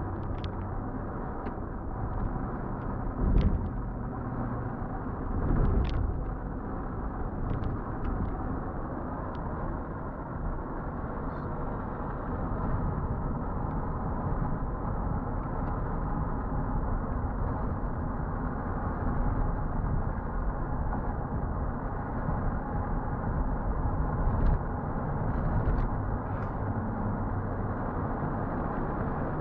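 Car on the move heard from inside through a dashcam's microphone: a steady rumble of engine and road noise, with a few short knocks, the loudest about three and a half seconds in and again about six seconds in.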